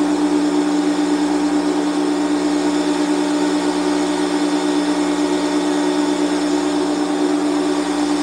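Bostitch 6-gallon air compressor running steadily, its motor and pump building pressure in the tank before cut-off.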